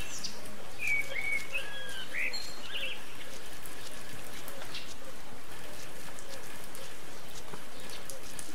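Birds chirping, a handful of short calls in the first couple of seconds, over a steady outdoor hiss.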